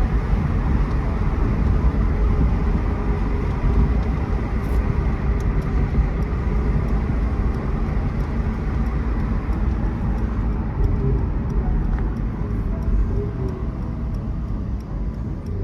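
2018 Mercedes-AMG E43's twin-turbo V6 and road noise while the car cruises at a fairly even pace, easing off slightly near the end.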